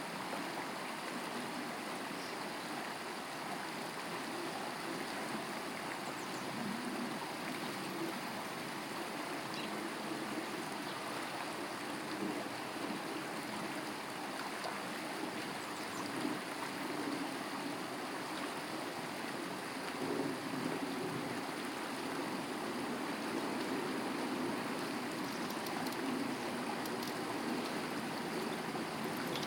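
A stream running steadily, an even rushing of water.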